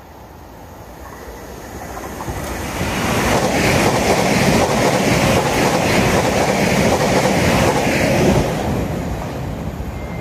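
Northern Class 331 electric multiple unit passing through at speed. Its wheels rumble with a regular clickety-clack over the rail joints, swelling over the first three seconds, holding, then fading after about eight seconds as it draws away.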